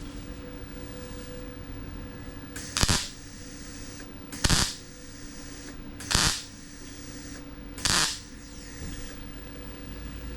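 MIG welder laying four short tack welds on a sheet-steel car fender, each a brief burst under half a second, spaced about a second and a half to two seconds apart, over a steady low hum. The tacks are overlapped one on another to fill a hole in the panel.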